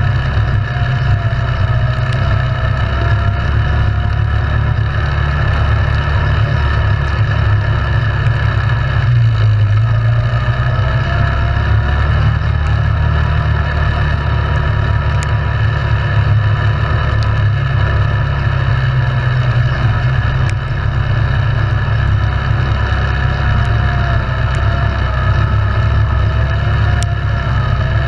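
ATV engine running steadily under way, its pitch rising and falling a little with the throttle, with a few faint ticks.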